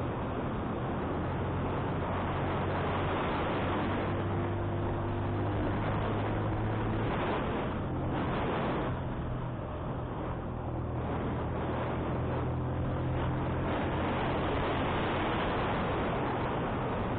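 Motorcycle engine running steadily under load while climbing a hill road, with heavy wind noise rushing over the microphone. There is a slight lull in the wind about nine seconds in.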